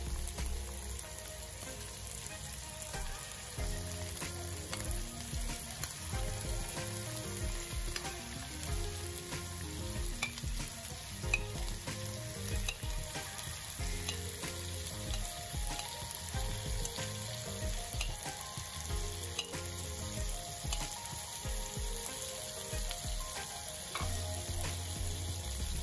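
Raw prawns sizzling steadily in hot fat with chopped garlic and chilli in a wok, with background music over it.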